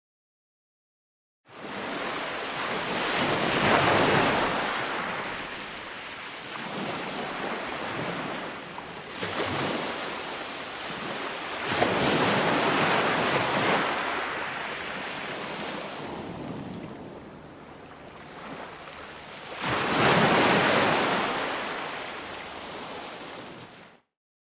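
Ocean waves breaking on a shore, swelling and falling back three times, one surge about every eight seconds. Dead silence for the first second and a half, and the sound cuts off abruptly near the end.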